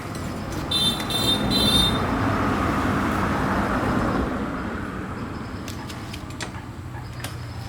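A road vehicle passing by, its noise swelling over the first couple of seconds and slowly fading away. A brief high chirping comes about a second in.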